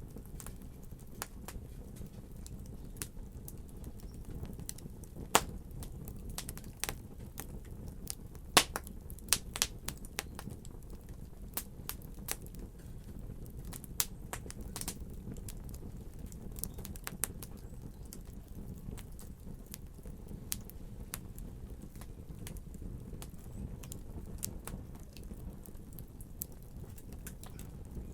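Wood fire burning in a fireplace: a steady low rumble with irregular sharp crackles and pops, a few louder snaps between about five and ten seconds in.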